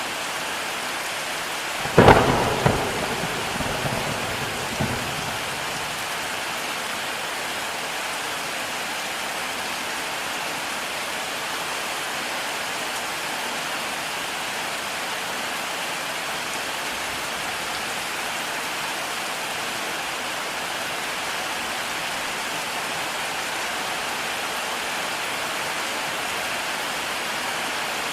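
Heavy rain falling steadily. About two seconds in, a sharp thunderclap cracks and rumbles away over a few seconds.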